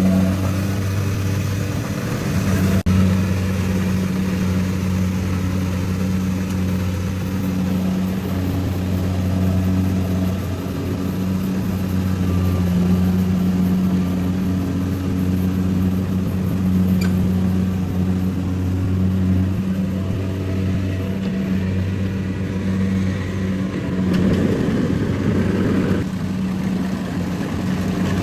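Rice harvester's engine running steadily at constant speed with a low, even hum.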